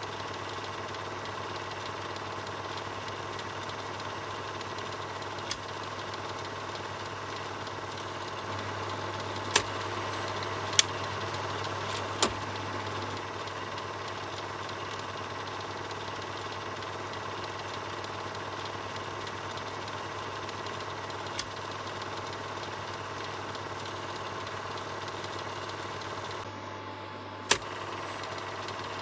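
Film projector running steadily with a low hum under its mechanism, six sharp clicks scattered through it. The sound dips briefly near the end, just before the last click.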